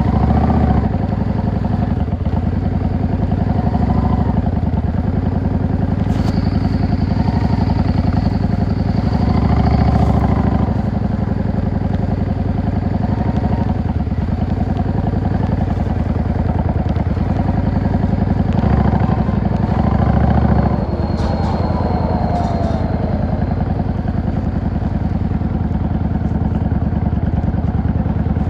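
Yamaha XVS 650 V-Star's air-cooled V-twin engine running on the move, the throttle opened in several short surges. About three-quarters of the way through it drops back to a quieter, steady run.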